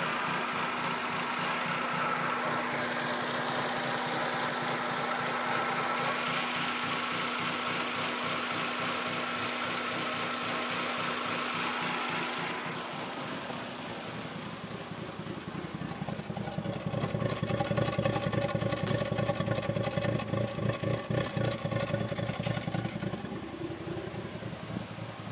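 1996 Mazda Miata's 1.8-litre four-cylinder engine idling roughly, with a steady run of firing pulses. Partway through, the sound dips and then turns louder and more uneven for several seconds. The rough idle has a cause that the owner does not know.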